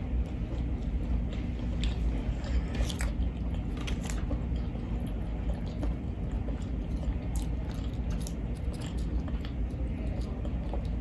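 A person chewing a fried chicken sandwich close to the microphone, with scattered small wet mouth clicks.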